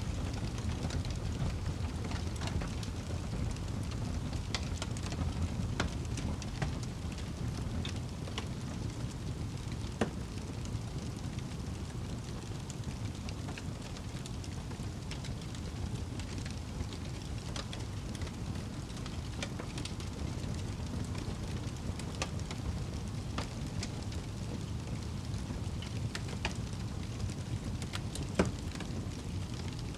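Wood fire crackling in a fireplace: scattered sharp pops and snaps over a steady low rumble, with the loudest pops about ten seconds in and near the end.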